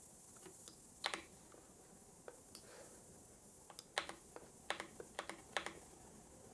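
Computer keyboard keystrokes in sparse, irregular taps, picking up into a quick run from about four to six seconds in, over a faint steady hiss.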